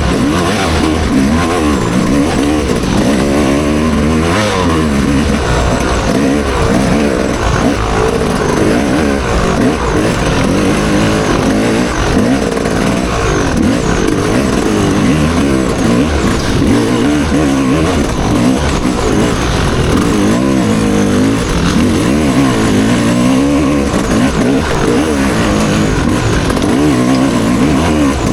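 Motocross bike engine ridden hard, revving up and down again and again as the throttle opens and closes.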